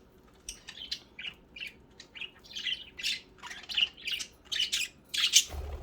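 Several pet budgerigars chirping and squawking in quick, scattered short calls.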